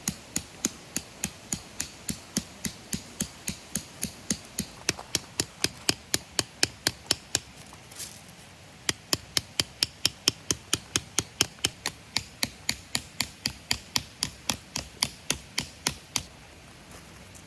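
Hammer driving a tent peg into the ground with steady sharp blows, about three a second, in two long runs with a short pause about halfway and stopping near the end.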